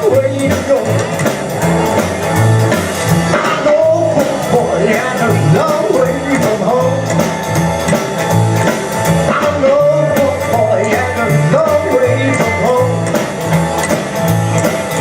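Vintage rock 'n' roll band playing: a stepping bass line and steady beat under electric guitar lines.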